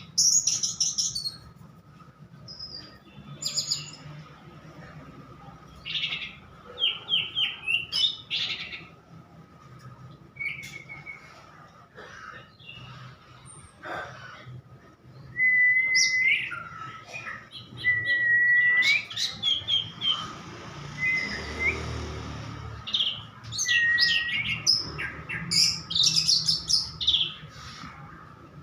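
Orange-headed thrush (anis merah) singing a long, varied run of short chirps, trills and sweeping whistles, broken by brief pauses, with the loudest stretches about halfway through and near the end. It is singing in 'teler' form, the fluent, continuous song that bird keepers train for. A faint steady high hum runs underneath.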